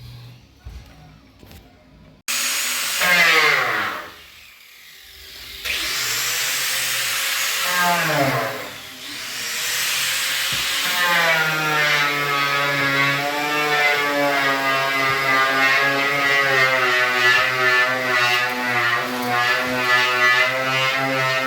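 Electric power tool running, its pitch falling steeply twice as it winds down, then running steadily with a constant whine for the last ten seconds.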